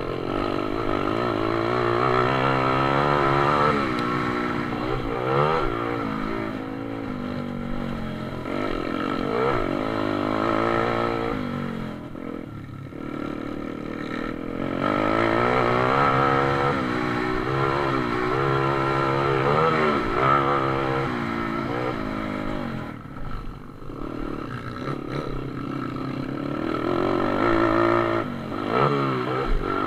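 Pit bike engines racing, revving up and dropping back again and again as the riders accelerate and shift, with the pitch climbing and falling every few seconds.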